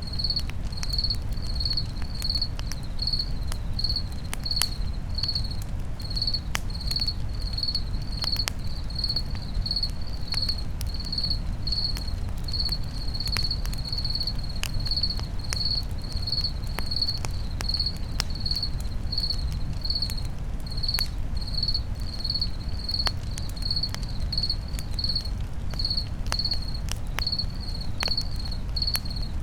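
Crickets chirping steadily, evenly spaced high chirps about three a second, over the crackle and sharp pops of a campfire and a low rumble.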